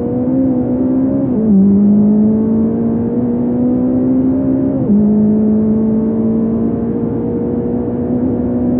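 Fiat Punto race car's engine pulling hard uphill. The revs climb steadily, drop sharply at an upshift about a second in and again about five seconds in, then climb again.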